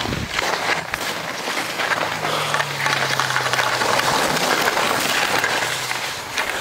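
Skis sliding and scraping over snow during a run, mixed with wind rushing over the microphone; a faint low hum runs underneath.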